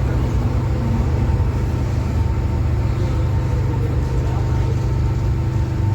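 MTR M-Train metro car running at speed, heard from inside the carriage: a steady, loud low rumble of wheels and running gear with faint steady motor tones above it.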